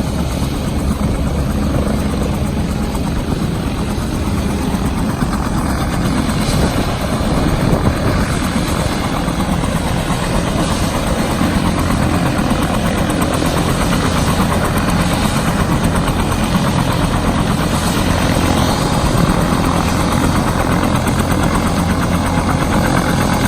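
Turbine helicopter running steadily on the ground: a constant engine and rotor sound with a steady low hum and no change in pitch.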